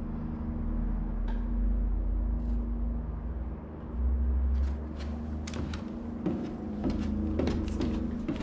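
Engine running steadily. From about halfway in, a quick series of sharp clicks and knocks rattles over it.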